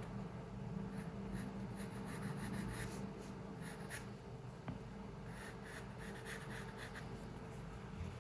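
Pencil scratching on paper in quick repeated drawing strokes, in two runs with a brief pause about halfway, over a steady low room hum.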